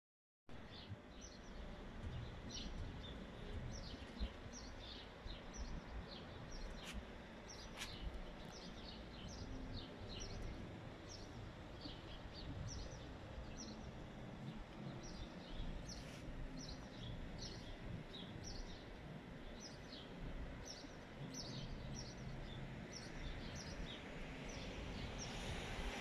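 Small birds chirping, short calls repeated again and again, over a steady low background rumble of a quiet city. A rushing noise starts to rise near the end.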